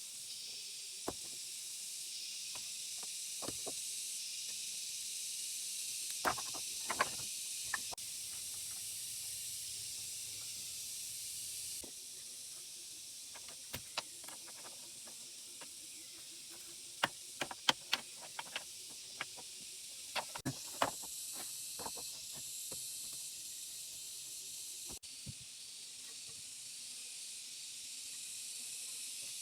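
A steady high-pitched hiss, with scattered sharp clicks and knocks, several in quick succession about six seconds in and again past the middle.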